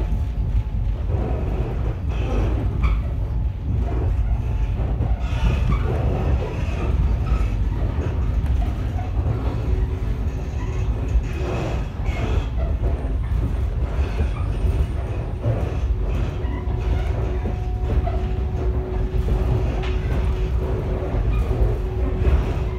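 Ex-JR 119-series electric railcar (Echizen Railway MC7001) running, heard from inside the car: a steady low rumble with occasional wheel clacks over rail joints. A steady humming tone comes in about two-thirds of the way through.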